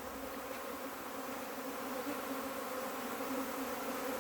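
Honey bee swarm buzzing, a steady hum that slowly grows louder as the swarm moves into a box.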